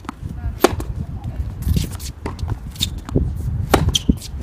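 Tennis ball struck by rackets and bouncing on the court during a rally, sharp pops spaced irregularly, the loudest about two-thirds of a second in and near four seconds, with shoe steps on the court over a low rumble.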